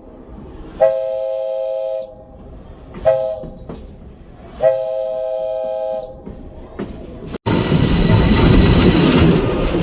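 Diesel locomotive air horn, a chord of three tones, sounding long, short, long: the end of the grade-crossing signal, which warns that the train is nearing a road crossing. After a sudden cut near the end, the train's running noise rumbles steadily with some rail clatter.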